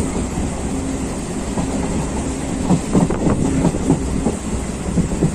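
Katwa–Howrah local passenger train running along the line, heard from inside a carriage: a steady rumble with wheels clacking over the rail joints, a quick run of clacks about three seconds in.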